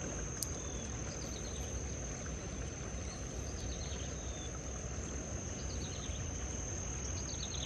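Riverside ambience: a steady high-pitched insect drone with a few short bird chirps, over a low steady rumble.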